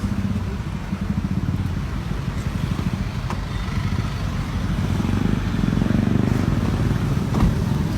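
A motor vehicle's engine running close by, a dense low rumble that grows louder from about five seconds in. A brief knock comes near the end.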